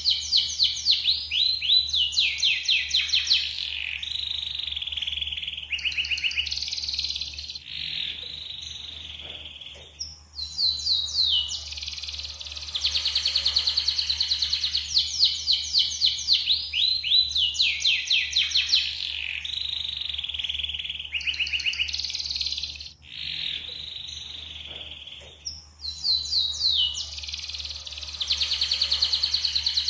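Yellow canary singing a long song of fast trills and rolling phrases, with short pauses about ten seconds in and again a little past twenty seconds, over a steady low hum.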